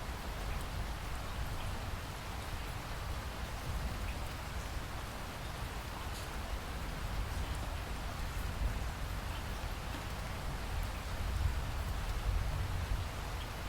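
Steady rain falling, with a constant low rumble underneath and faint scattered drip ticks.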